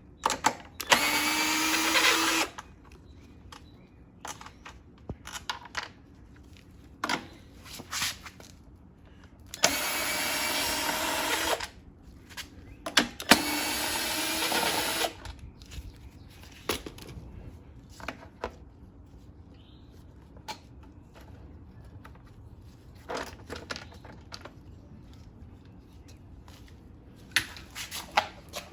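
Cordless drill-driver spinning out the 10 mm bolts of a Kohler XT675 engine's top cover in three steady runs of a couple of seconds each, the motor tone rising slightly in each. Light clicks and knocks of the bolts and cover being handled come in between.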